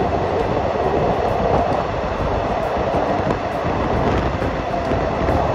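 Passenger train running at speed through a long rail tunnel: a steady, loud rumble and rush of wheels and air, held in by the tunnel walls, heard at the coach doorway.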